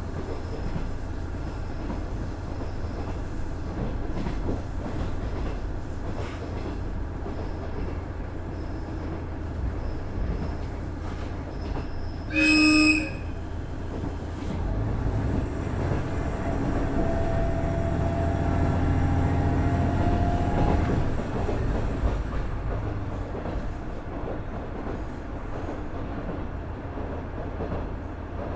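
Onboard running sound of a KiHa 110 series diesel railcar, its Cummins DMF14HZA engine and wheels on rail running steadily, with one short horn blast about twelve seconds in. From about fifteen seconds the engine grows louder with a slowly rising tone for several seconds, then drops back.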